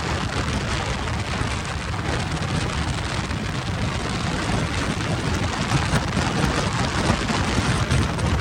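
Wind rushing and buffeting over the microphone of a Suzuki GSX650F motorcycle riding at speed: a steady, rough noise that covers the engine.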